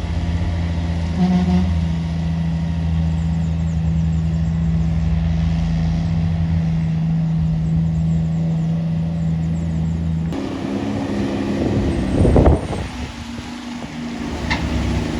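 A heavy truck's engine pulls at a steady speed, as on a climb with a load. About ten seconds in it cuts to another vehicle passing, with a brief loud surge about two seconds later.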